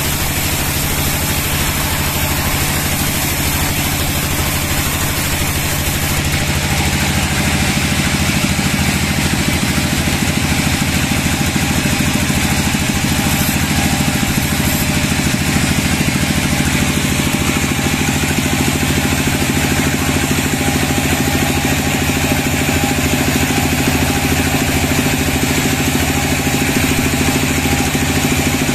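Sawmill machinery running steadily with an engine-like hum; its tone shifts and grows a little louder about six seconds in.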